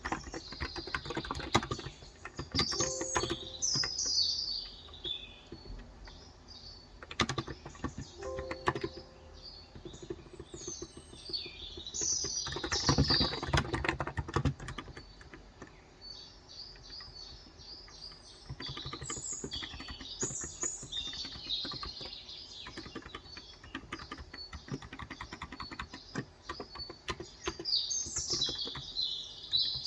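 Typing on a COX Endeavor tenkeyless electro-capacitive keyboard with 35 g switches, the keys clacking in quick runs. Small birds chirp and twitter in the background several times: a few seconds in, around the middle, and near the end.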